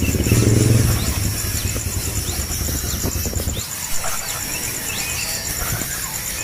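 A low engine hum that stops suddenly about three and a half seconds in. Over it come short rising chirps from small birds, and a steady pulsing high insect trill.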